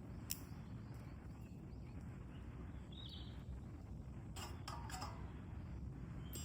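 Quiet outdoor background with a steady low rumble, broken by a few sharp clicks and snaps, a small cluster of them around the fifth second, and a short high chirp about three seconds in.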